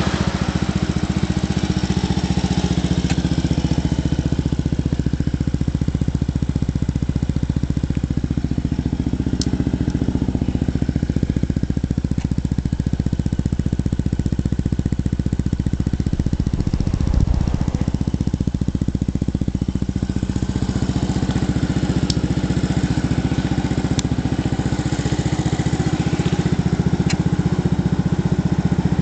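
Yamaha BW'S 125 scooter's single-cylinder four-stroke engine idling steadily after starting. A brief low thump about 17 seconds in.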